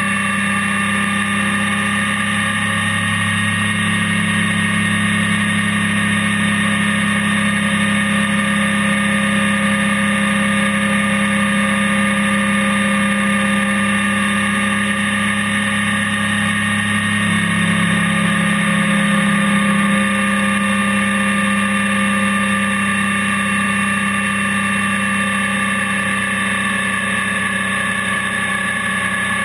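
Honda NC700X parallel-twin motorcycle engine running at a steady cruising speed, heard from the bike itself with wind and road rush. The engine note holds even, shifting slightly in pitch about two-thirds of the way through.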